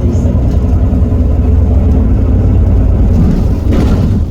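Heuliez GX327 city bus's Iveco Cursor 8 six-cylinder diesel running steadily under way, with a faint whine from the drivetrain above the engine drone. A brief hiss comes about three and a half seconds in.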